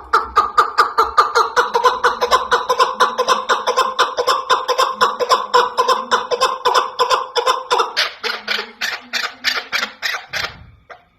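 Chukar partridge calling: a rapid run of clucking chuck notes, about five a second, which turn into louder, more widely spaced notes about eight seconds in. A brief low thump comes near the end.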